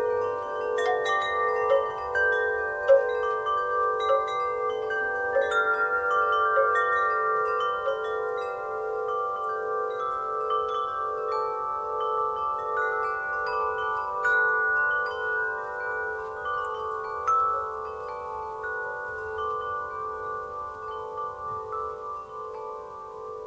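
Wind chimes stirred by a breeze, many tones struck at random and ringing on over one another, with a low tone pulsing steadily beneath the higher ones. The chiming gradually grows quieter toward the end.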